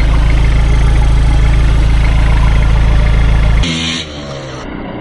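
Toyota LN106 Hilux's 3.0 turbo diesel running steadily under low load while crawling, with a deep even throb. It cuts off abruptly about three and a half seconds in, leaving a much quieter background.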